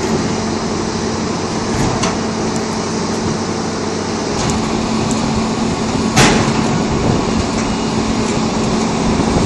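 Heavy-equipment diesel engine running steadily with a constant low hum, with a sharp metallic knock about six seconds in.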